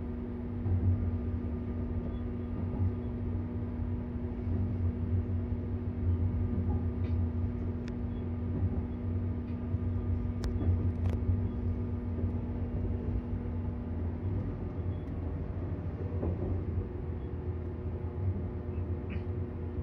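Seibu 001 series Laview train running, heard from inside the passenger cabin as a steady low rumble. A steady hum stops about three quarters of the way through, and there are a few faint clicks.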